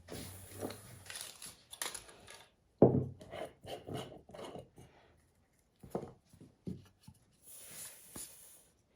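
Small wooden pieces handled on a workbench: an irregular series of knocks and clatters with short scraping, rubbing strokes, loudest with a sharp knock about three seconds in.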